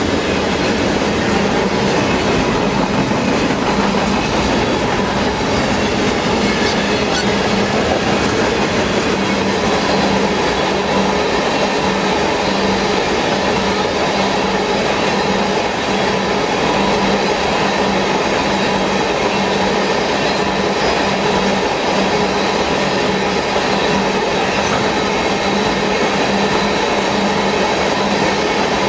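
Freight train of covered hoppers and tank cars rolling past close by: a loud, steady rumble of steel wheels on rail, with a constant hum of a few steady tones running through it.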